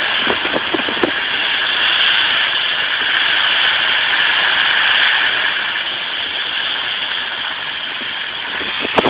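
A car running, heard from inside the cabin: a steady engine hum under a constant hiss. The hiss eases a little about six seconds in.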